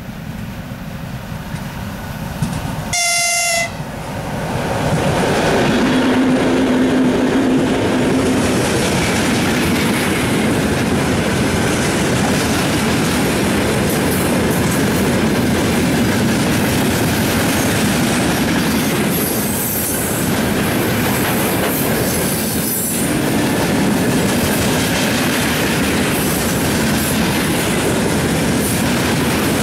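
2TE25KM twin-section diesel locomotive sounding one short horn blast about three seconds in. The locomotive then passes with its diesel engines running, followed by a long train of tank wagons rolling by on the rails.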